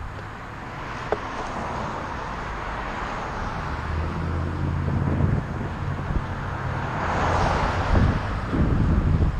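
Wind rushing over the microphone while riding along a road, with traffic noise that swells twice, near the start and again about seven seconds in, like vehicles passing. A low vehicle engine hum runs through the middle.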